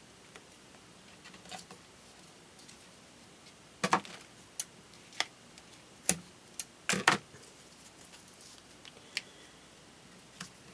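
Scattered light taps and clicks of crafting supplies being handled on a work table. They come in an irregular cluster from about four to seven seconds in, with a couple more near the end.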